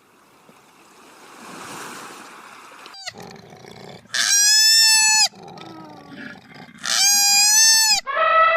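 Two loud, high, drawn-out animal calls, each a little over a second long, the first about four seconds in and the second about three seconds later. They are preceded by a rising rustling noise.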